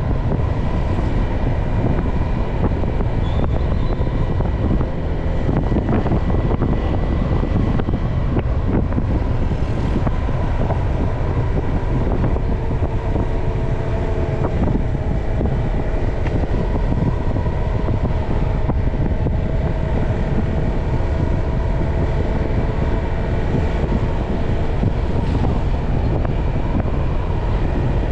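Motorcycle running steadily on the move, with a constant low wind rumble over the microphone.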